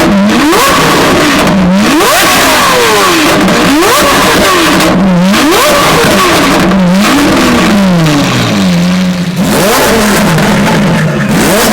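A supercar engine blipped over and over, its pitch shooting up and dropping straight back about every second and a half, with one longer rev falling slowly back toward idle about two-thirds of the way through.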